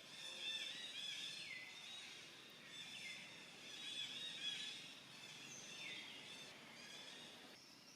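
Faint chorus of birds chirping and calling high, with three falling whistle-like calls about a second and a half in, three seconds in and near six seconds.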